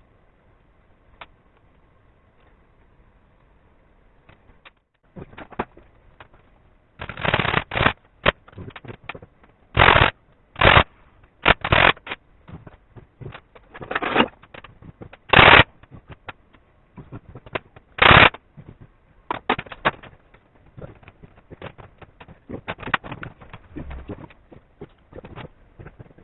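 Handling and working noises: irregular clicks and short, loud scraping or rustling strokes, bunched together between about seven and twenty seconds in, with scattered quieter clicks before and after.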